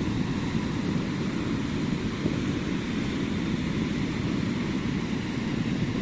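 Ocean surf breaking on a sandy beach: a steady low rumble of waves with no single crash standing out.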